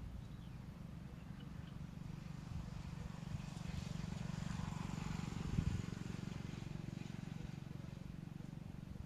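A motor vehicle passing by, its noise swelling and fading over a steady low hum, with a single knock near the loudest point. A few faint short bird chirps come early on.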